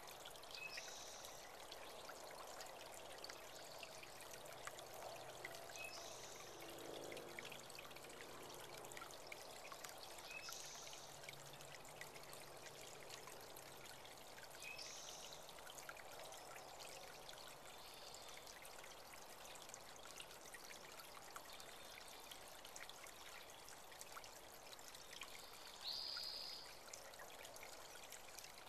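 Faint, steady trickling of water from a small spring-fed creek. A bird gives a short high call every four or five seconds, loudest near the end.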